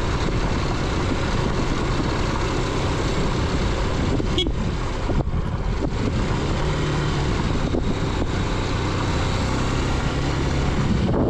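Motorcycle engine running under way on a rough, stony dirt road, mixed with steady wind and road noise and a few short knocks about four to five seconds in.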